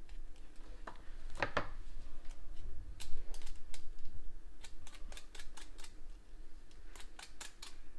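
Fresh ginger root being peeled in quick strokes: sharp scraping clicks against the root and taps on the cutting board, coming in short runs of several at a time.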